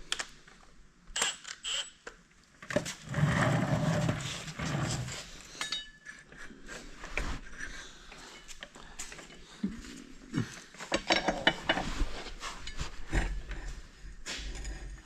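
Metal hand tools and sockets clinking and rattling as they are picked through and handled, with scattered sharp knocks and a denser rattle a few seconds in.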